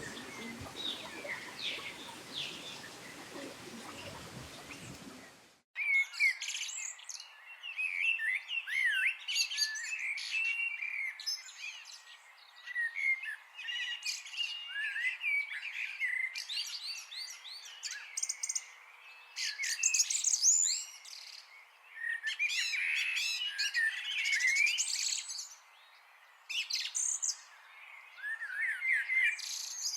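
A chorus of songbirds chirping and singing, with many quick rising and falling whistled notes overlapping. About five seconds in, a softer recording with background noise cuts off abruptly to a louder, denser chorus.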